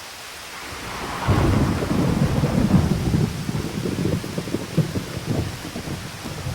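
Thunder over steady rain: a loud clap about a second in that rolls into a low, crackling rumble and slowly dies away, with the rain's hiss underneath.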